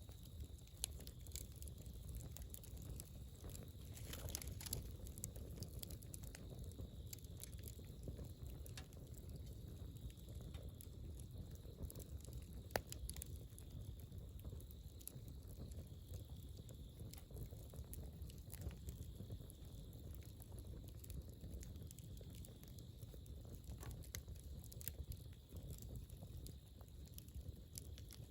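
Wood fire crackling, with irregular small pops and a sharper pop about halfway through, over a low steady rumble.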